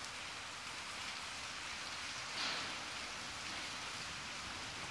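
Steady rain, an even hiss, with a brief louder swell about halfway through.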